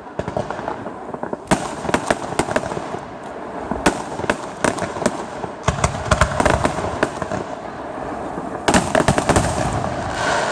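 Fireworks display: a continuous barrage of sharp bangs and crackling, with louder clusters of bursts about 1.5, 4, 6 and 9 seconds in.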